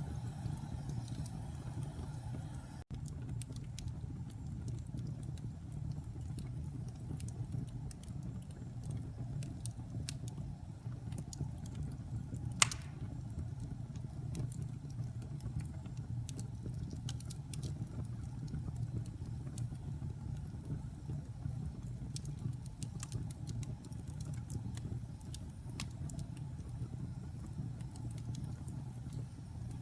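Wood fire burning in a fireplace: a steady low rumble of flames with scattered crackles and one louder pop about twelve seconds in.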